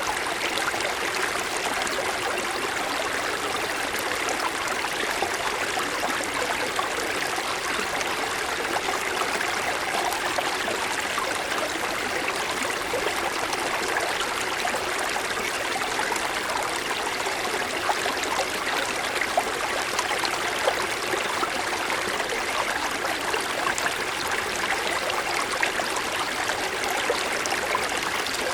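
Small mountain stream flowing over snow-covered stones: a steady babble and gurgle of water with small splashes.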